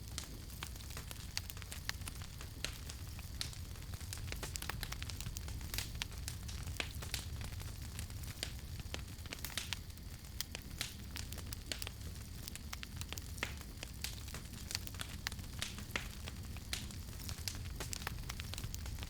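Wood campfire crackling: irregular sharp pops and snaps, several a second, over a steady low rumble of burning.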